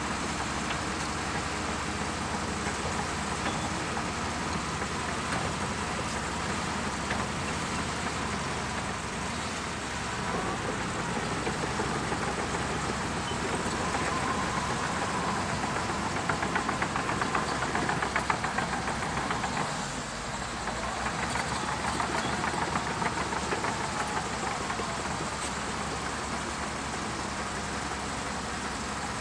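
Shantui bulldozer's diesel engine running steadily, with a louder stretch of rattling and clanking a little past halfway through.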